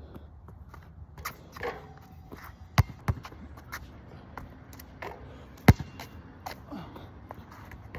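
Basketball bouncing on a wet court. There are three hard bounces, two close together about three seconds in and the loudest a few seconds later, among lighter taps and shoe scuffs.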